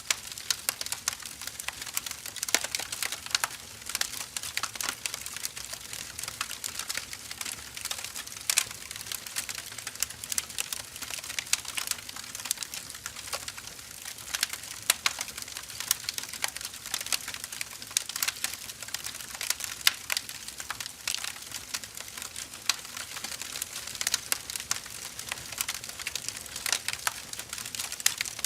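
Firewood burning, with dense irregular crackles and pops over a steady hiss of the flames.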